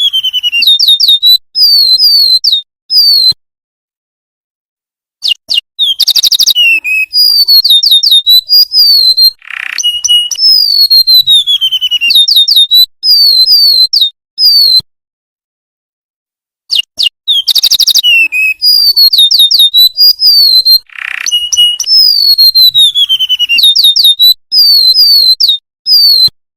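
Golden-bellied gerygone (remetuk laut) singing: thin, high whistled phrases of descending slides and quick trills, in bursts separated by silent gaps of about two seconds. The same sequence repeats about every eleven seconds, as a looped song recording.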